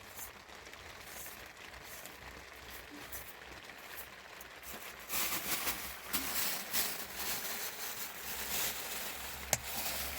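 Rain pattering, getting louder and heavier about halfway through, with one sharp click near the end.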